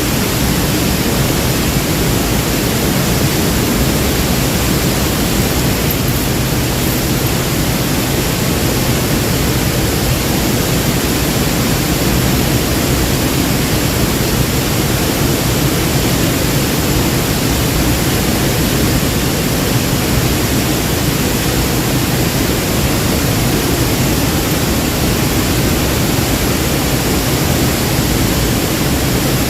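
Waterfall: a loud, steady rush of falling water, even throughout.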